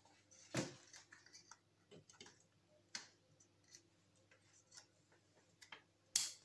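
Small irregular clicks and scrapes of metal tweezers picking hair out of the inside of a hair dryer. The sharpest ticks come about half a second in, about three seconds in and near the end.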